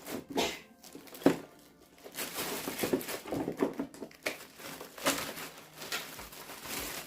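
Plastic packaging crinkling and rustling in irregular handfuls as vacuum cleaner attachments are unwrapped, with a sharp crackle about a second in.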